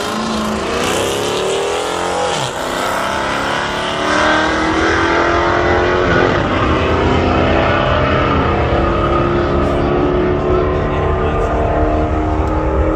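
Vehicle engine running hard at high revs, its pitch climbing over the first couple of seconds, a short dip about two and a half seconds in, then a long sustained high-revving pull.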